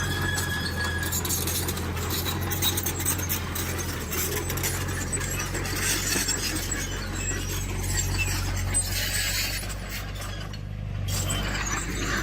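Heavy earthmoving machine's diesel engine running steadily, with metallic squeaks and clinks over it. The level dips briefly near the end.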